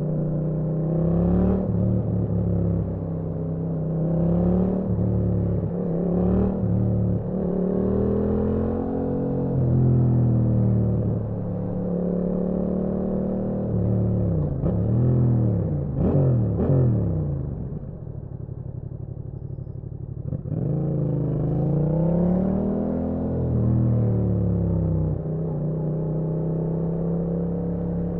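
Yamaha MT-07 parallel-twin engine revving up and dropping back again and again as the bike accelerates and changes gear. About two-thirds of the way through it settles briefly to a lower, quieter running, then pulls away again.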